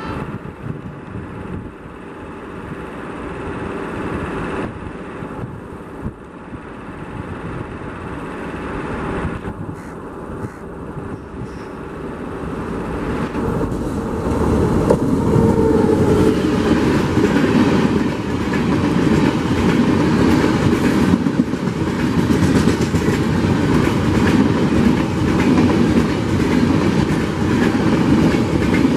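Passenger express hauled by a WAP7 electric locomotive approaching at speed, its rumble growing louder, with the locomotive passing about halfway through. A steady loud rush and rumble of the coaches' wheels on the track follows as the carriages go by.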